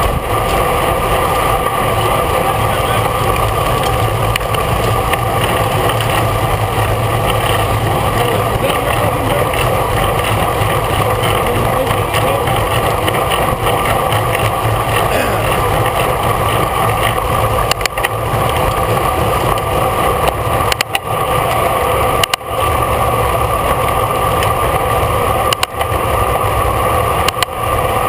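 Steady rush of wind and road noise on a bicycle-mounted camera while riding at race speed, with a few brief dips late on.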